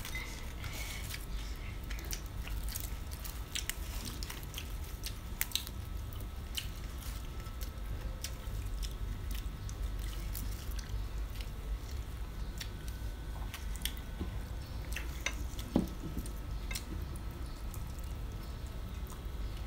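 Quiet eating sounds: scattered small wet mouth clicks and soft chewing of rice noodles wrapped in fresh greens, over a low steady hum. Two clicks, about five seconds in and near the end, stand out a little.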